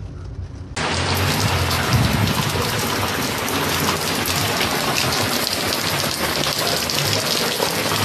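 Heavy rain pouring down steadily, a dense, even hiss. It starts abruptly about a second in, after a quieter low rumble.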